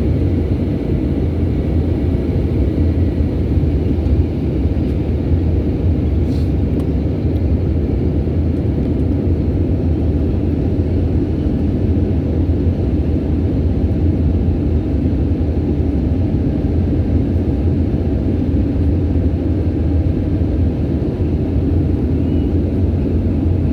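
Steady low rumble of a PIA airliner's engines and rushing air on its landing approach, holding an even level throughout.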